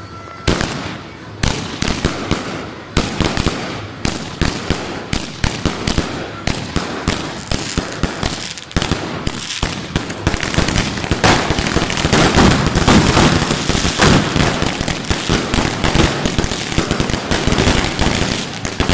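Firecrackers going off in a rapid series of sharp bangs and pops, spaced out at first and from about ten seconds in merging into dense, continuous crackling.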